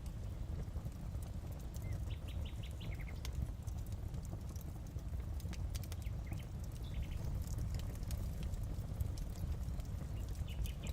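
Wood fire crackling in a fireplace: irregular sharp pops and snaps over a steady low rumble of the flames. A few faint high chirps come through about two seconds in, around seven seconds, and near the end.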